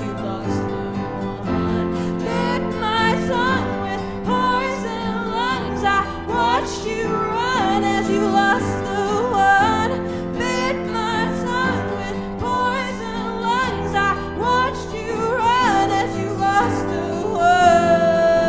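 Live acoustic band music: a female voice sings sweeping vocal runs with vibrato over chords on acoustic guitars, and near the end settles on one long held high note.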